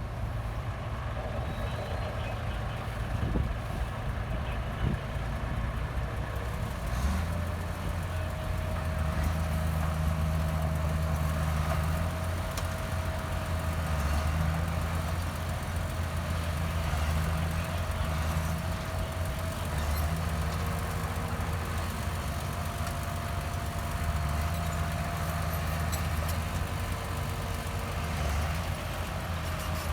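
Heavy diesel engine of earthmoving machinery running steadily, working harder and deeper from about seven seconds in, with a faint steady whine above it.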